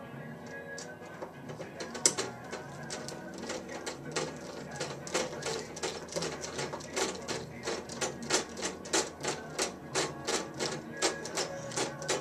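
Rapid, irregular metallic clicking and tapping of a screwdriver and screw working inside the waterer's metal electrical box while a screw is being started and driven in tight quarters.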